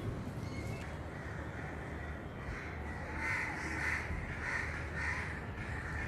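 A bird calling: a run of about six harsh calls, starting about halfway through and spaced roughly half a second apart, over a steady low hum.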